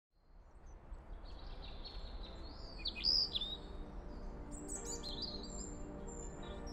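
Birds chirping and singing, fading in from silence over the first second. Soft music starts to come in past the middle.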